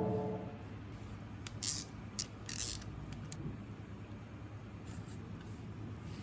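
A metallic ring dies away, followed by three short, bright clinks and scrapes of small metal parts being handled.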